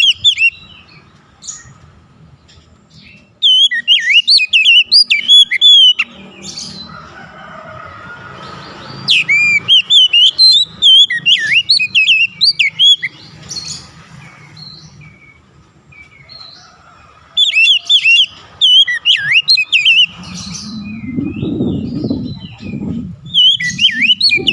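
Oriental magpie-robin (kacer) singing in four bursts of fast, varied whistled notes, with short pauses between them. A low rumbling noise sits underneath during the last few seconds.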